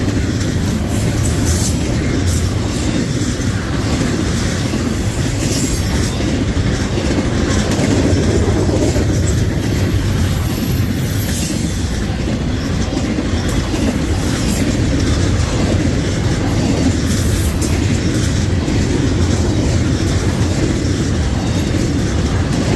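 Norfolk Southern freight train's cars rolling past close by: a steady, loud rumble of wheels on rail with clickety-clack over the joints and a brief high wheel squeal about ten seconds in.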